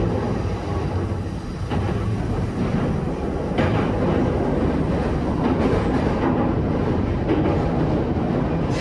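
Running noise of a Joban Line E531-series electric train heard from inside the car: a steady rumble of wheels on rail with occasional sharp clacks. It gets a little louder from about three and a half seconds in, as the train goes out over a river bridge.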